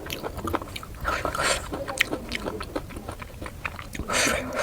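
Close-up eating sounds of puri with chicken curry being chewed: many small mouth clicks, with two short hissing rushes, about a second in and near the end.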